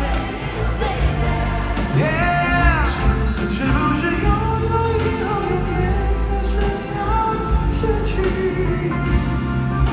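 Live band music with a singer's voice over a heavy bass line, an amplified pop ballad played in a large hall. About two seconds in, a sung note swoops up and back down.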